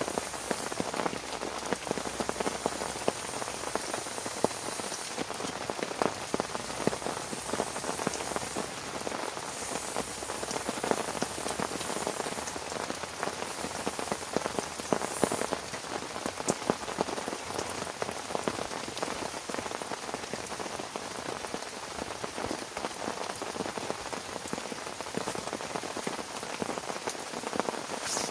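Heavy rain falling steadily on a surface, a dense hiss with many separate drop hits.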